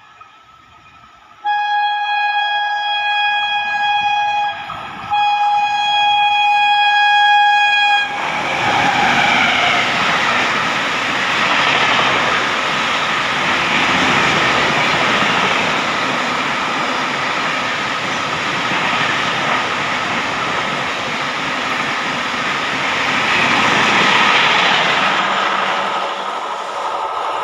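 An express train hauled by a WAP7 electric locomotive sounds its horn in two long blasts with a brief gap between them, then runs through the station at speed. The passing train makes a loud, steady rush of wheels on rail and coaches going by, easing slightly near the end.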